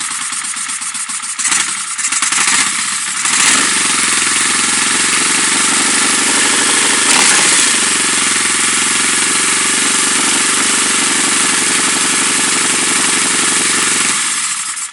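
Vehicle engine running at idle with a strong hiss over the engine note. The revs pick up a couple of seconds in, sag briefly about halfway, then hold steady before the engine stops near the end. The owner suspects a vacuum leak behind the misbehaviour.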